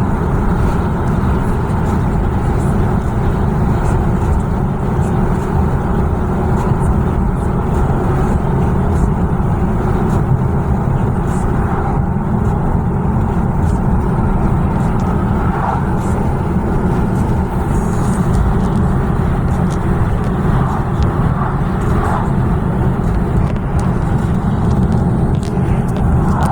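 Steady low rumble of a motor vehicle driving at an even speed, with no rise or fall in level.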